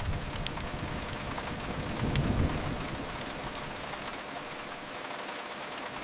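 Steady hiss of rain, with a low rumble that fades out about halfway through and a few faint fireplace crackles in the first couple of seconds.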